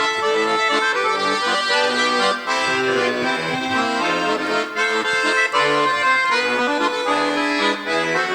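Accordion playing an instrumental introduction, a melody over sustained chords, before the singing of a song begins.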